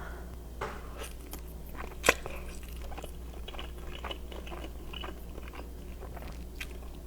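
Close-miked eating: a crunchy bite, with a sharp loud crack about two seconds in, then chewing with many small crackling crunches.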